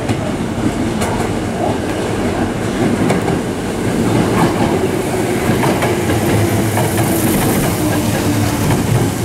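Hanshin electric train passing through the station at speed without stopping, with a steady rumble and the clack of wheels over rail joints. A humming tone holds one pitch for a few seconds past the middle.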